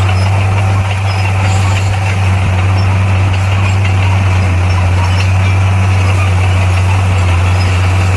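Heavy earthmoving machine's diesel engine running at a steady low hum.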